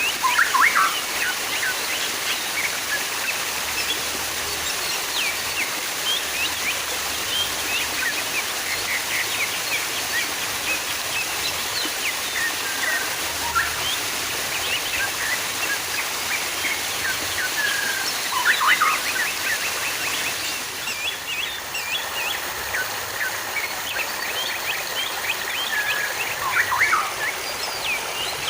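Steady running, splashing water with small birds chirping over it throughout, the chirping busiest at the start, a little past the middle and near the end.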